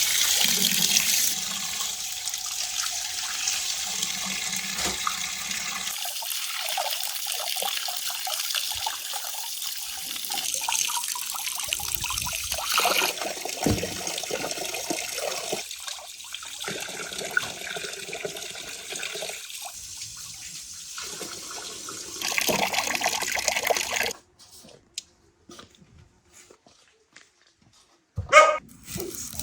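Water running and splashing, the flow varying in strength, then stopping abruptly; after that, a few small clicks and one sharp knock near the end.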